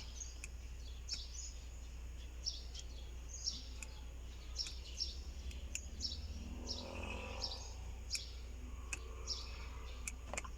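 Small birds chirping in short, high calls, one or two a second, over a steady low hum.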